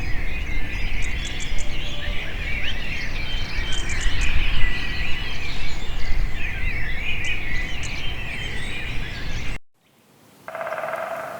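Dense chorus of many small birds chirping and twittering rapidly over a low rumbling background noise, cutting off abruptly near the end. After a brief silence, a new buzzy, pulsed call begins.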